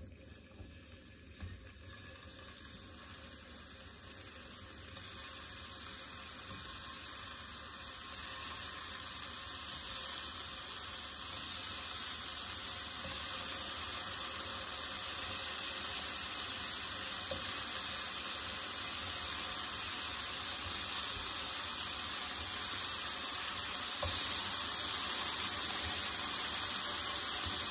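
Marinated shrimp sizzling in hot butter in a frying pan as they are laid in one by one. The sizzle builds steadily louder as the pan fills, with a further rise near the end.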